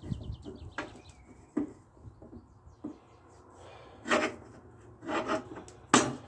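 Hand work on lawn mower axle parts: intermittent rubbing and scraping with scattered light knocks, then three louder rasping scrapes in the second half.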